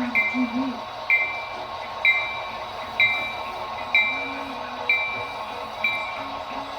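Model diesel locomotive's sound-decoder bell ringing steadily, a little under one strike a second, over a steady hum.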